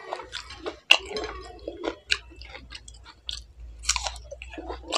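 A man chewing pieces of fresh fruit, with wet mouth sounds and short sharp clicks, the sharpest about a second in.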